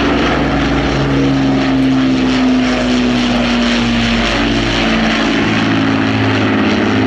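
Avro Lancaster bomber's four Rolls-Royce Merlin V12 piston engines droning in flight. It is a loud, steady, many-toned propeller drone whose pitch shifts slightly a few times.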